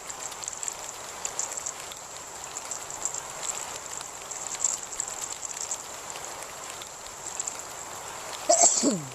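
Heavy rain falling steadily, with many close drops ticking through it. Near the end a brief, loud sound slides downward in pitch.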